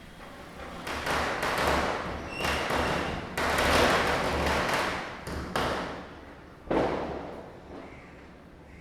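Diwali firecrackers bursting: a run of bangs over the first several seconds, each rolling off in a long echo, the loudest a little over three seconds in, then one more sharp bang near the end.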